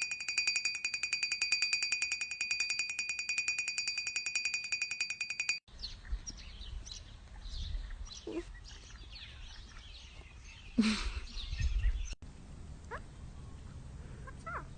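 A telephone-style ring: a fast, even trill on steady high tones that cuts off suddenly about five and a half seconds in. Then come faint bird chirps over low handling rumble, with a louder scuffle-like burst near eleven seconds.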